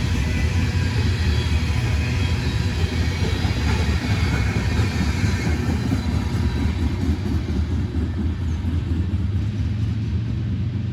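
Freight train rolling past with a steady rumble of wheels and rail cars, easing off slightly near the end.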